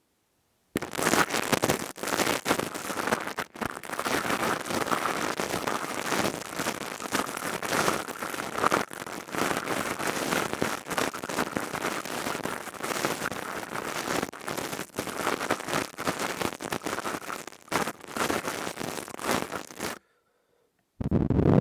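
Dense close-miked crackling and scratching from crystal tubes worked against the microphone. It starts about a second in and stops abruptly about a second before the end.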